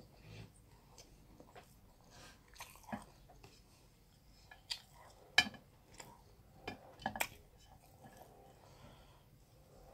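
A person chewing and eating chicken by hand: a scattering of short, sharp mouth smacks and clicks, the loudest a little past halfway through.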